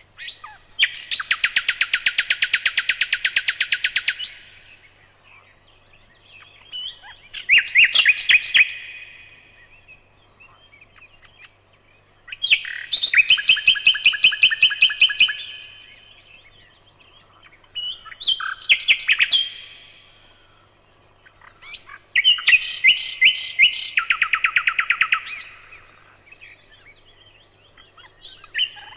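Nightingale singing: loud phrases of rapid, rattling repeated notes, each lasting one to four seconds, with short pauses between, about six phrases in all.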